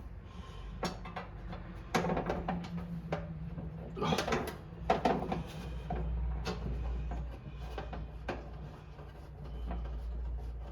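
Workshop handling noise: scattered clicks and knocks of parts and tools being worked by hand, with a low hum underneath.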